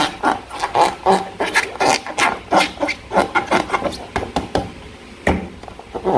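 Slime being squeezed and stretched by hand: an irregular run of short squelches and pops, a few a second.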